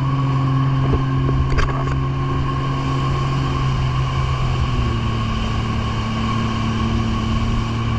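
Jet ski engine running steadily at cruising speed, its drone dipping slightly in pitch about halfway through, with water and wind noise around it.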